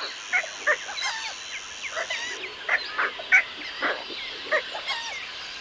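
A flock of waterbirds, played as the sound of pelicans, giving many short honking calls at irregular spacing, several birds overlapping.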